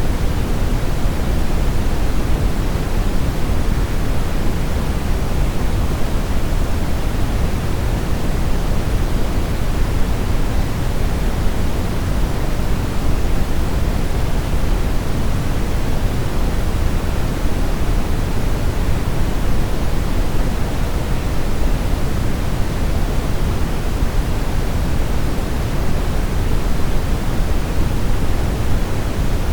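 Steady brown noise: an even, unchanging rush weighted toward the low end, deep like a distant waterfall.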